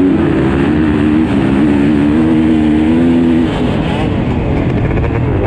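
Motocross bikes' engines running hard at high revs, a held engine note that drops away about three and a half seconds in as a bike passes or shifts, with other bikes running underneath.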